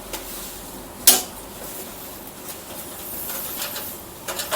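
A single sharp click about a second in, against low room noise: the main electrical switch being flipped back on to power a newly wired ceiling light for its first test.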